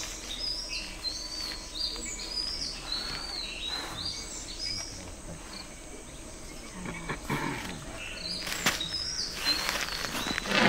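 A bird calling in a rapid series of short, high chirps that thin out after about four seconds. A single sharp click sounds near the end, and a rush of noise begins just before the end.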